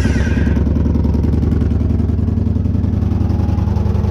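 A 2014 Victory Cross Country Tour's 106 cubic inch V-twin running steadily after starting, with a rapid, even exhaust pulse. It runs with no mufflers fitted and the front header bolts missing.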